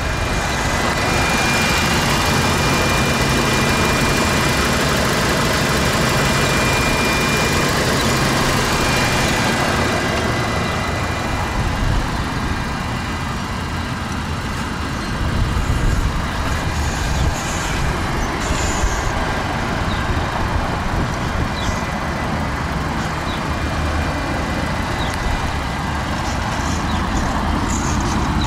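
Steady motor-vehicle noise: a low rumble under a hiss that eases after about ten seconds, with a few light clicks later on.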